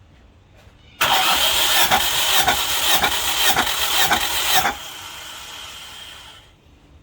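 Nissan QG18DE four-cylinder engine cranked over by its starter motor for nearly four seconds, with pulses about twice a second and no sign of it catching, as when cranking for a compression test. The cranking cuts off abruptly, leaving a fainter steady sound that fades out.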